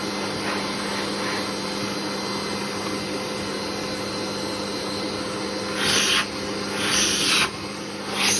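Mitsubishi vacuum cleaner running steadily at medium suction through its brush attachment, a hum under a rushing hiss. Near the end there are three louder hissing surges of about half a second each.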